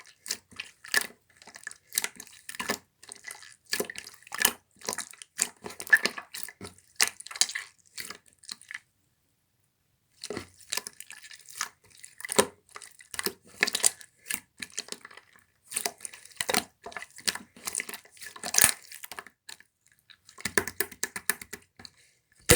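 Translucent slime being squished and kneaded by hand: a fast, irregular run of wet clicks and pops, broken by a silent pause of about a second and a half near the middle.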